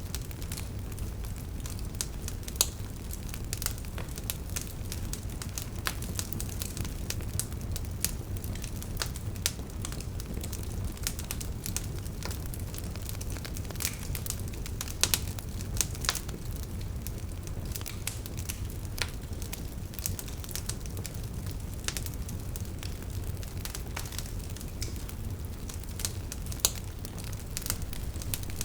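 Wood fire burning: logs crackling with many sharp snaps over a steady low rumble of the flames, and a few louder pops.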